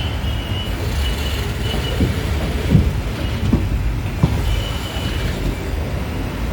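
Passenger train running, heard from on board: a steady low rumble with a few short knocks and rattles, and a faint high squeal now and then.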